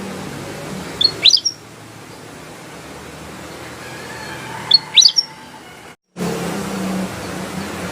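Kutilang emas bulbul giving short, sharp chirping phrases of quick up-and-down notes, one about every three to four seconds, over a steady background hiss. The sound drops out completely for a moment about six seconds in.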